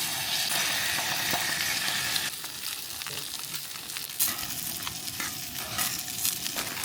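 Salmon fillet frying skin side down in a hot pan, sizzling. The sizzle is loudest at first and drops about two seconds in, with scattered pops and crackles.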